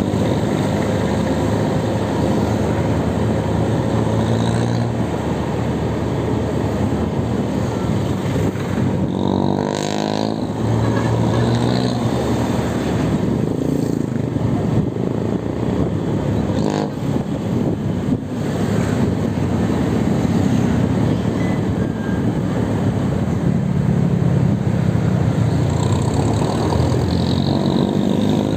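Road traffic: motor vehicle engines running over steady road noise, with engine pitch rising and falling about ten seconds in and again near the end.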